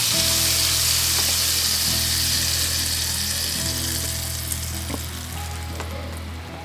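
Food sizzling in a hot pan on a camp stove, a steady frying hiss that dies down near the end, with background music underneath.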